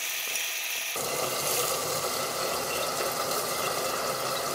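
Gyoza frying in oil on the stove, a steady sizzling hiss that grows fuller about a second in.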